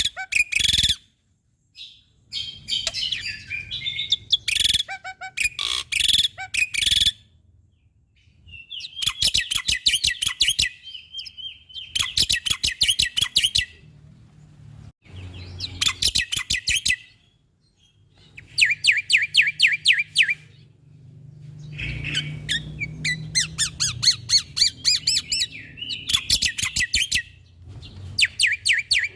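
Black-winged myna (jalak putih) singing in loud bursts of rapid, rattling chatter. Each burst lasts a second or two, with short pauses between, over a faint low hum.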